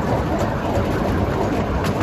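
Miniature steam train running along the track: a steady rumble of the wheels on the rails, with a couple of light clicks.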